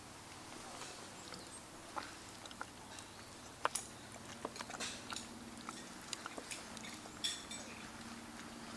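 Spoon clicking and scraping against a dish at irregular intervals while curry and rice are eaten.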